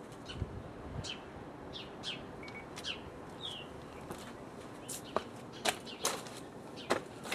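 Small birds chirping: many short, quickly falling chirps, several a second, with a few sharper, louder ones in the second half.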